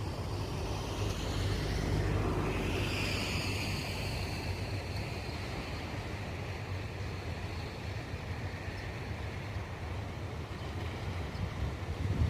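Steady outdoor rumble, with a passing vehicle that swells and drops in pitch about two to four seconds in, then fades.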